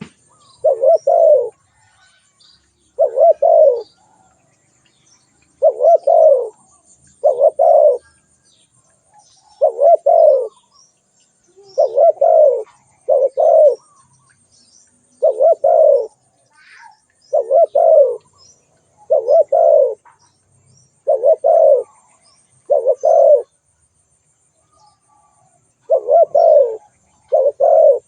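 Spotted dove cooing: a low coo phrase repeated about every one and a half to two seconds, with faint high chirps of small birds between phrases.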